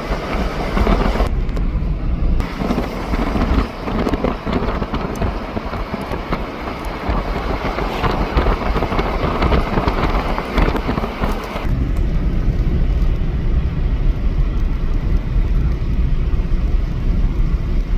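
A car driving along: steady road and wind noise with a deep rumble, heard from the moving car. About twelve seconds in, the hiss drops away and the low rumble grows stronger.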